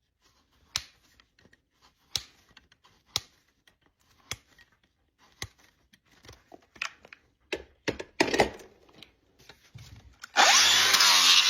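Hoof trimming on a draft horse's hoof: a series of sharp clicks about once a second, bunching up over the last few seconds. Then a power tool starts near the end with a rising whine and runs loud and steady.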